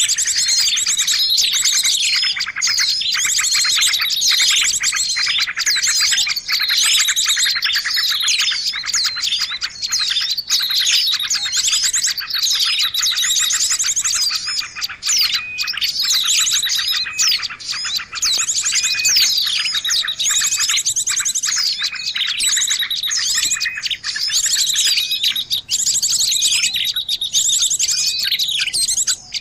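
Bird-lure recording of many small birds chirping, trilling and whistling at once, a dense, continuous chorus of rapid high calls.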